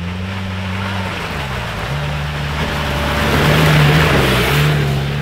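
An off-road vehicle's engine running under load, its note shifting as the throttle changes, with a rushing noise that swells to a peak about four seconds in.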